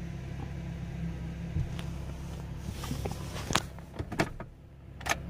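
Tow truck's engine running steadily, with a few sharp clicks and clunks in the second half.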